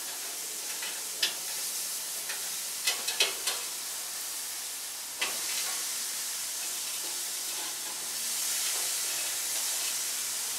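Chuck steak sizzling on a hot grill as it is turned over, with several sharp clicks of a metal utensil against the grill in the first half. The sizzle grows louder about eight seconds in.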